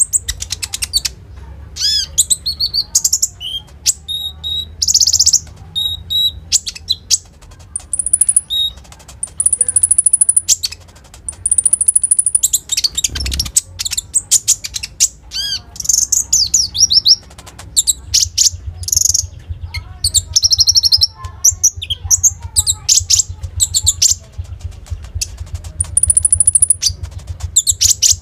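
Konin songbird singing loudly: rapid high chirps, trills and whistled phrases in quick succession with short pauses, in the mimicry-filled song that keepers call full isian.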